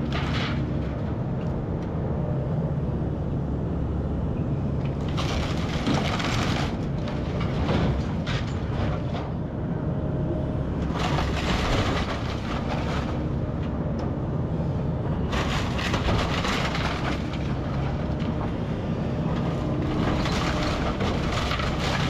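Kobelco SK210 excavator running steadily, with four stretches of louder crunching and cracking a few seconds apart.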